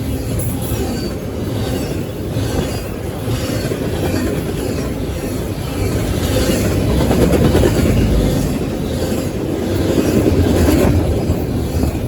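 A CSX train's cars rolling past at speed: a steady loud rumble of wheels on rail with repeated clicking, swelling louder twice in the second half.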